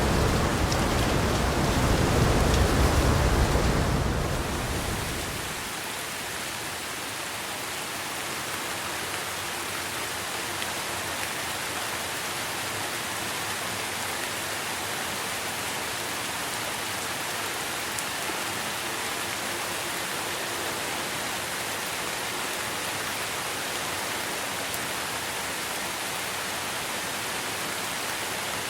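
Steady rainfall hissing evenly, with a deep low rumble that dies away over the first five seconds.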